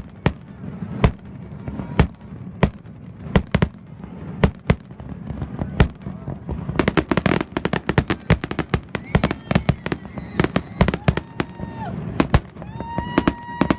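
Aerial fireworks bursting: a string of sharp bangs a second or so apart, quickening to a rapid volley of overlapping reports about seven seconds in.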